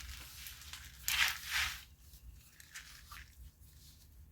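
Hands handling small engine parts at a workbench: a short scraping rustle about a second in, lasting under a second, then a few faint scratches.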